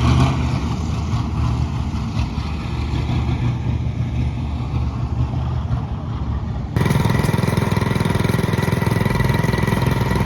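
A motor vehicle's engine running at a steady low hum. About two-thirds of the way through it cuts abruptly to a louder engine sound with a hiss and a few higher steady tones.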